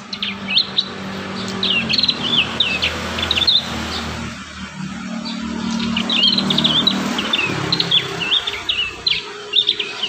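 Prinia (prenjak) calling in quick runs of short, sharp chirps, over a low steady hum.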